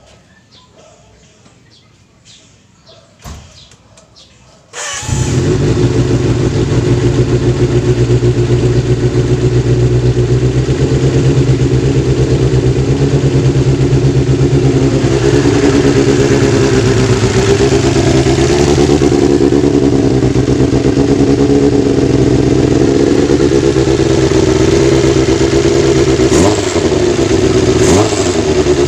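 Kawasaki GPz 400 motorcycle engine catching about five seconds in, then running steadily at idle, with a couple of short throttle blips near the end.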